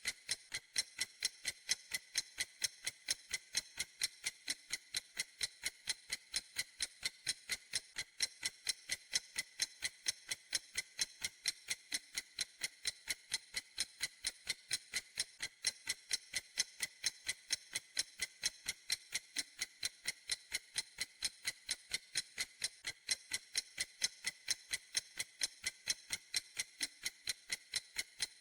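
Clock ticking steadily: even, crisp, high ticks, a few each second, with no break.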